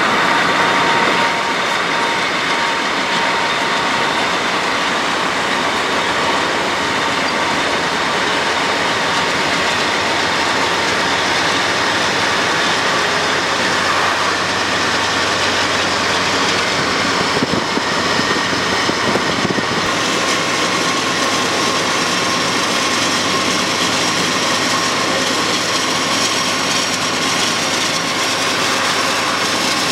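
BNSF auto rack freight train rolling by, a steady, continuous rail noise with a few held tones over it.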